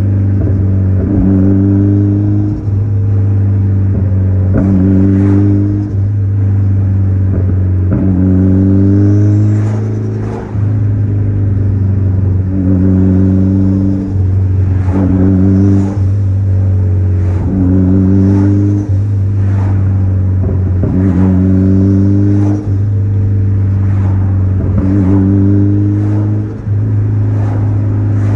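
Mitsubishi Lancer Evolution X's turbocharged four-cylinder engine with an open-dump titanium exhaust, heard from inside the cabin while driving. It holds a steady low drone, with a short rising rev about every couple of seconds.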